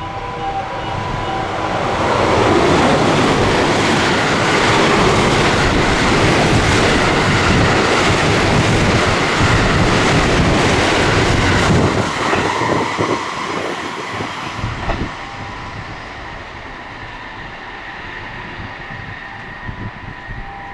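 Train passing through a station at speed without stopping: a loud rush of wheels and rail noise builds over the first couple of seconds and holds for about ten seconds. Near the middle it falls away, with a few seconds of wheel clatter as the last cars go by, then a quieter tail.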